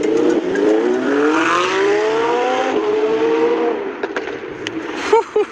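Lamborghini engine accelerating hard, its pitch climbing, then dropping sharply at a gear change about two and a half seconds in. It holds briefly before easing off.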